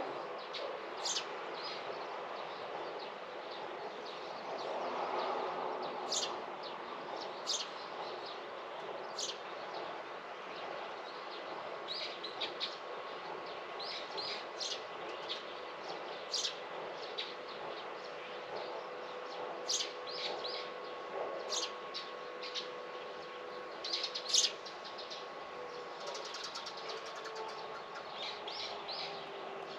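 Small birds chirping: short, high chirps come irregularly, a few every second or two, over a steady faint hum.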